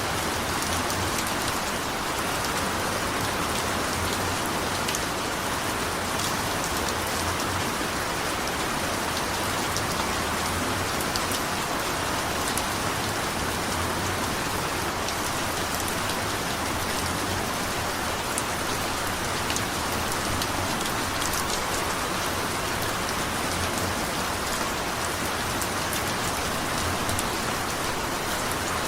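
Steady rain falling, with scattered sharp hits of individual drops.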